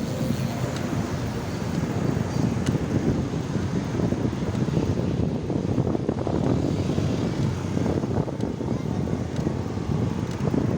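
Wind buffeting the microphone of a rider on the move, a steady fluttering rush, with road and traffic noise underneath.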